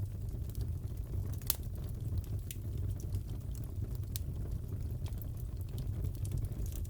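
Wood fire crackling in a fireplace: a steady low rumble with sharp, irregular pops and snaps every fraction of a second.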